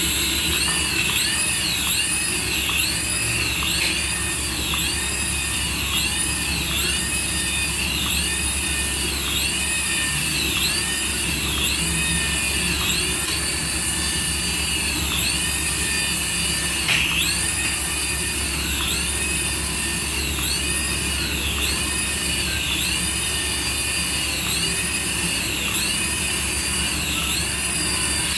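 Electronic toy sound effect from a small speaker: a looped jet-engine-like whine that rises and falls in pitch about once a second, over a steady hum.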